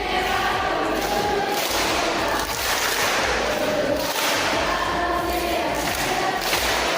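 A large group of young students' voices shouting and chanting together at once, loud and without a break.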